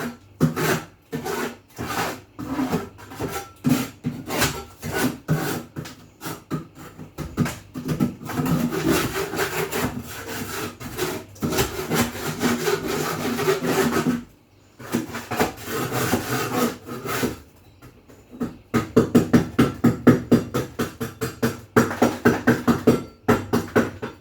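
Rapid, repeated rubbing and scraping strokes, several a second, like something being scrubbed by hand. They pause briefly twice in the middle and come faster and louder in the last few seconds.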